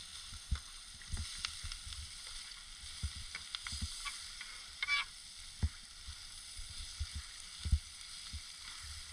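Onions sizzling in an aluminum pan on a portable stove, with a knife stirring and scraping against the pan in scattered clicks and one longer scrape about halfway through.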